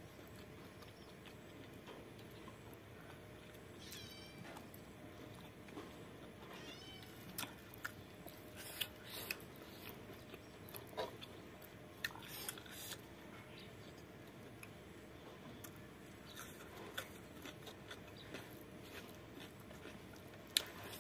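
A person chewing a mouthful of food close to the microphone: soft wet smacks and small clicks, scattered and mostly quiet, busiest a third of the way in. Two brief high wavering squeaks come about four and seven seconds in.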